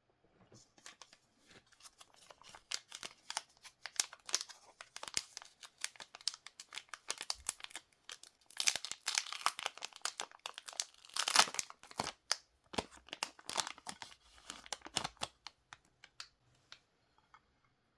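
Crinkling and tearing of a trading-card pack's plastic wrapper: dense crackly rustling that comes and goes, busiest about halfway through, then dies away just before the end.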